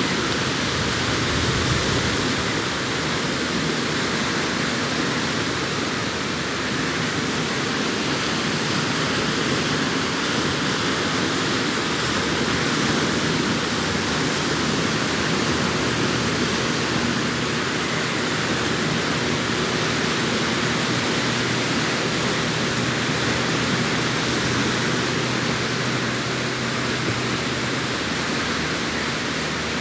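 Sea waves breaking on a beach, heard as a steady, even rush of surf without distinct surges.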